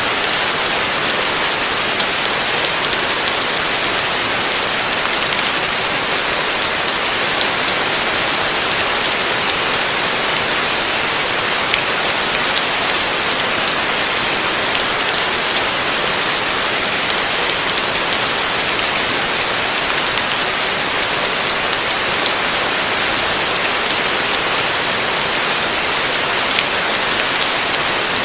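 Heavy rain falling steadily on a roof: a dense, even hiss with faint patter from single drops, unchanging throughout.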